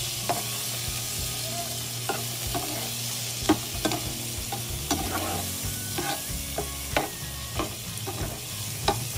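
Sliced onion and tomato sizzling in oil and butter in a frying pan, with a steady hiss and sharp clicks of a utensil against the pan now and then as they are stir-fried.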